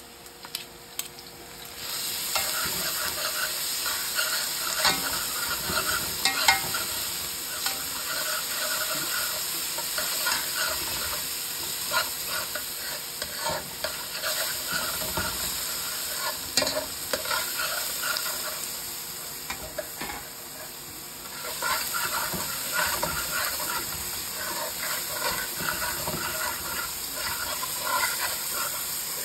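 Sliced onion frying in oil in an aluminium pot, sizzling steadily while a metal slotted spoon scrapes and clicks against the pan as it is stirred. The sizzle rises about two seconds in, eases briefly about two-thirds of the way through, then picks up again.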